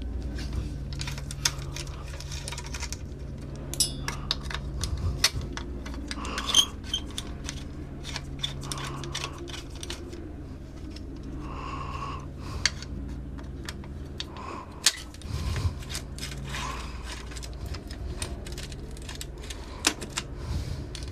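Irregular small metal clicks and taps of hand tools working on a mountain bike's chain guide mount, over a steady low hum.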